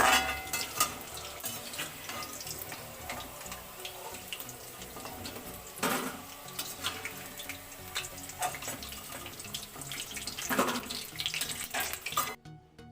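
Fried chicken pieces sizzling in hot oil, with clicks and knocks of a metal spoon against the pan as the pieces are lifted out. The sound cuts off abruptly near the end.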